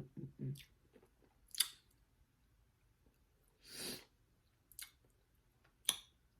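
Close-miked eating mouth sounds: soft chewing in the first half second, then a few sharp wet clicks and smacks spread out over the rest, with one short breathy rush a little before four seconds in.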